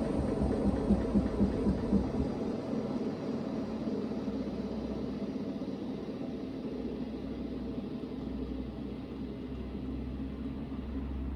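Hoover VHD 9163 ZI washing machine in its first spin, the drum spinning with a steady rumble. A few rhythmic thumps come in the first two seconds, then the sound gradually eases off.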